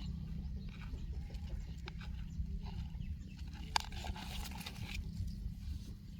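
Faint rustling and handling noise over a steady low rumble, with one sharp click a little past halfway.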